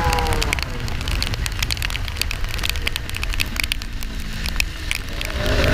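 Kawasaki Ninja 400 parallel-twin riding on the road, with wind rumbling on the microphone and a constant crackle of clicks over it. The engine note falls just after the start and settles into a steady tone in the second half.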